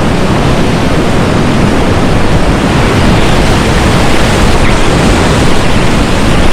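Whitewater rapids rushing loudly and steadily, a constant churning of river water close to the microphone.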